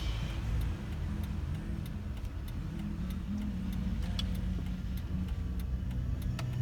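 A motor vehicle's engine running with a steady low hum, heard from inside the vehicle, with faint scattered ticks.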